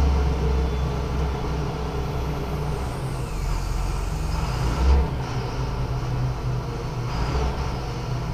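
Lorry engine idling with a steady low rumble, and a dull thump about five seconds in.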